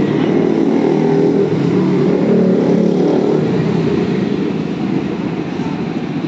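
A motor vehicle running steadily at close range, with a dense, rough low drone that holds without a clear rev change.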